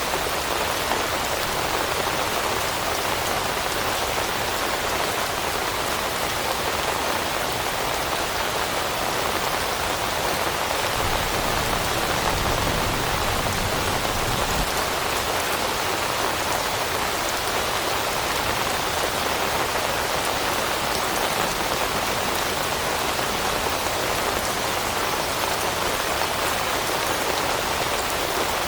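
Steady rain falling, a constant dense patter of raindrops on leaves.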